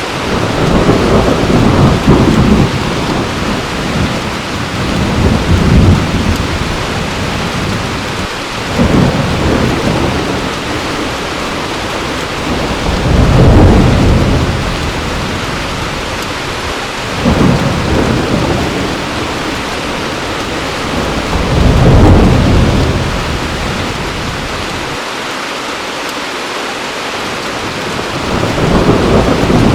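Heavy rain falling steadily, with rolling thunder rumbling in low swells about every four seconds, each building and fading over a second or two.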